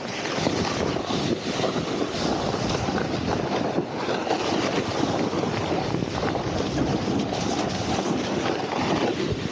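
Wind rushing over the microphone while riding, mixed with the steady scrape of a snowboard sliding over firm, hard-packed snow.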